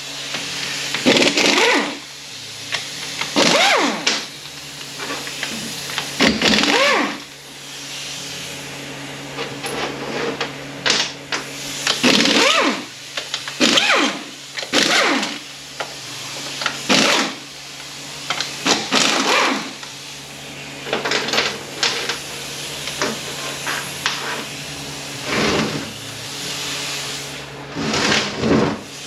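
Power tool running in repeated short bursts, a dozen or more, spinning out the 14 mm bolts on an automatic transmission case. A steady low hum runs underneath.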